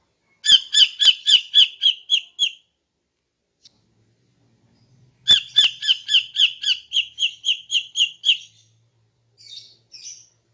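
Female greater green leafbird (cucak ijo) calling: two rapid runs of identical, clipped chirps at about four to five a second, the second run longer. Two faint short calls follow near the end.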